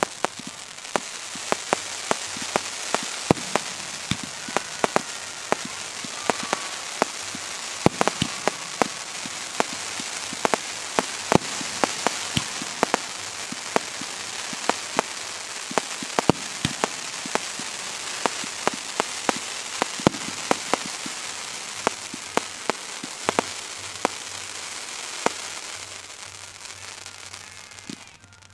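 Fireworks display: a continuous dense crackle under many sharp bangs of shells bursting, several a second, falling away suddenly near the end.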